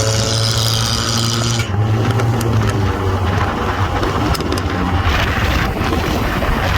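2005 Honda Accord running through a custom dual exhaust with a Y-pipe and blast pipes: a loud, steady low exhaust drone, with a hiss over it in the first second or two.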